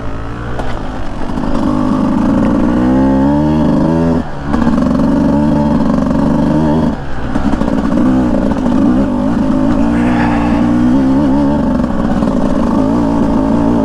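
Beta 200 two-stroke single-cylinder dirt bike engine under way, revving up and down on the throttle. The pitch climbs a few seconds in, and there are brief dips at about four and seven seconds, as the throttle is rolled off.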